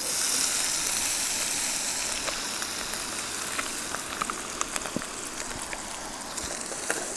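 Drained pre-cooked chunk chicken landing in hot cooking oil in a frying pan and sizzling. The sizzle starts at once, then slowly eases off, with scattered crackles and pops through it.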